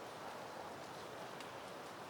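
Soft wind moving through peony plants and leaves: a steady, even rustling hiss with a few faint ticks.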